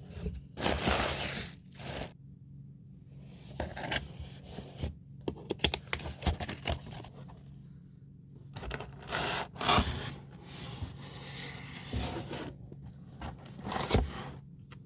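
Objects being handled: irregular scraping, rustling and tearing sounds with scattered sharp clicks and knocks.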